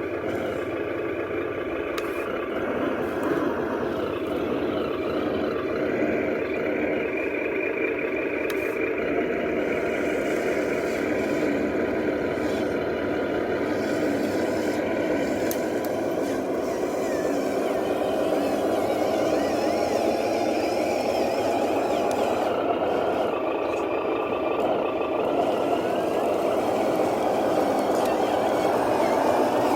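Remote-control 8x8 truck running steadily, its drive making a continuous sound that slowly grows a little louder.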